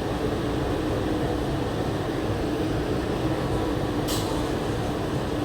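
Steady hum and rumble inside a Walt Disney World monorail car waiting at a station, with a brief sharp hiss about four seconds in.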